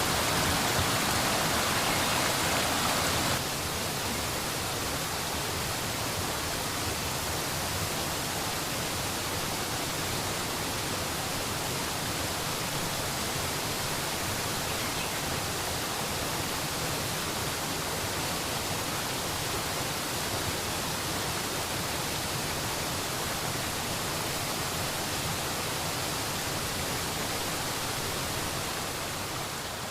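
Steady rushing noise of water, even and unbroken, dropping a little in loudness about three seconds in.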